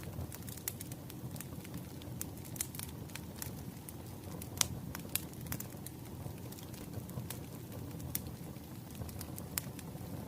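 Bonfire crackling: irregular sharp pops and snaps over a steady low rush of the flames, with one louder pop about halfway through.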